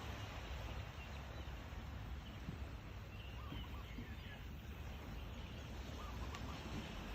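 Faint, short bird calls, a few of them, over a steady low background rush.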